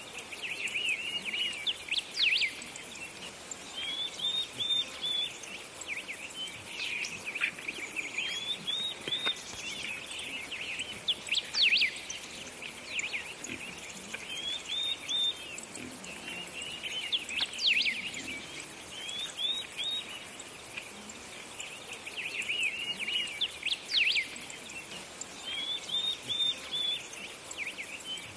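Birds chirping and calling, with short clusters of high chirps and quick rising calls coming back every few seconds.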